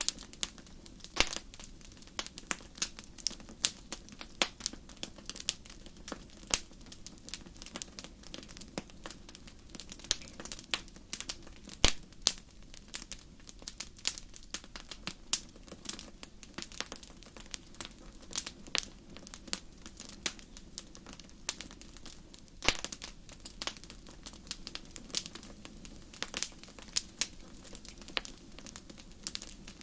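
Fireplace fire crackling: irregular sharp pops and snaps, several a second, over a steady low rumble of the flames, with a louder pop about twelve seconds in.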